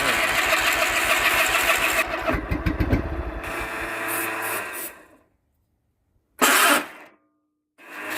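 Electric starter cranking a Kohler Magnum 18 lawn-tractor engine for about three seconds with an even pulse, then slowing and winding down over the next two seconds without the engine catching. A short, loud burst of sound follows about six and a half seconds in.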